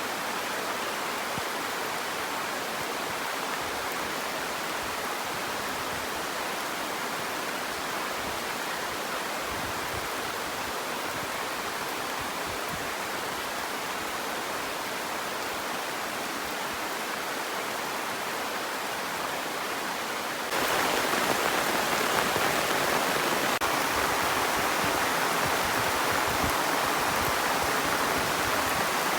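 Heavy rain falling steadily, an even hiss with no breaks. About two-thirds of the way through it abruptly becomes louder.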